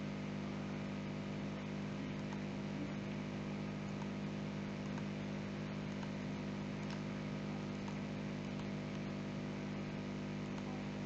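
Steady electrical hum made of many even tones, with a few faint clicks scattered through it.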